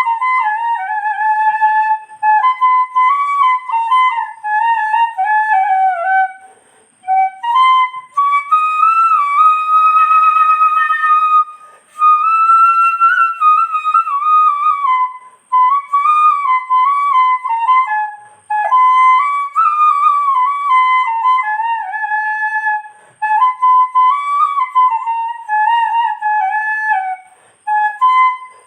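Background music: a solo flute playing a slow, wandering melody with a few short pauses between phrases.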